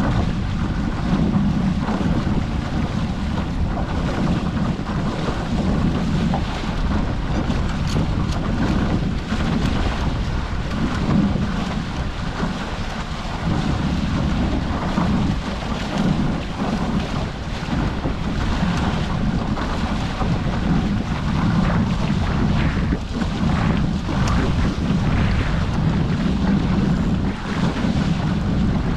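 Steady wind buffeting the microphone over the rush of water along the hulls of a Hobie 14 catamaran under sail.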